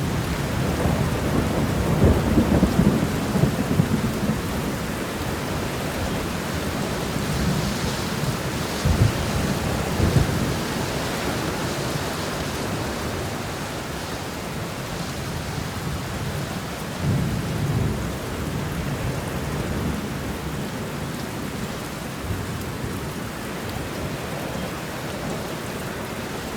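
Steady rain shower falling, with deep low rumbles that swell and fade a few times, the strongest in the first few seconds.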